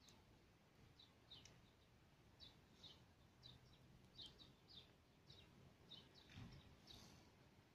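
Faint small-bird chirping: short high notes repeated every half second or so, with a soft low sound about six and a half seconds in.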